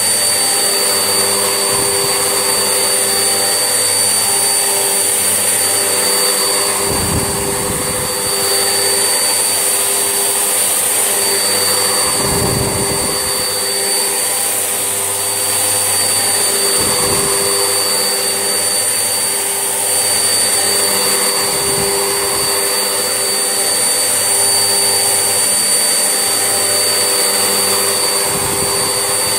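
Vax Essentials vacuum cleaner running steadily with a high motor whine. Low rumbles swell up every five seconds or so as it works.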